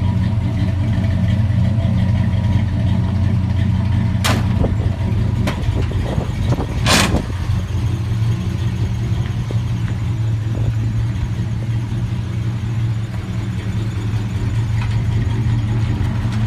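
1957 Chevrolet 3100 pickup's 265 V8 idling steadily, with two short knocks about four and seven seconds in.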